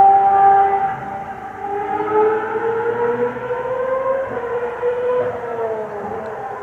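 Ferrari racing car engine at high revs, loudest at the start and fading as it goes away. A second, quieter engine note climbs in pitch until about four seconds in, then drops as it lifts off.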